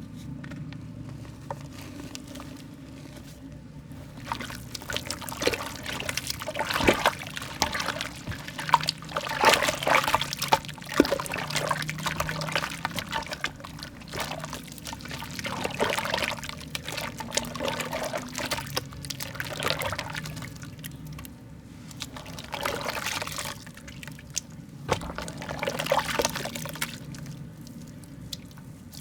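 Soft wet mud being crumbled and squeezed by hand, a wet crackling and squelching that comes in three spells with quieter gaps between.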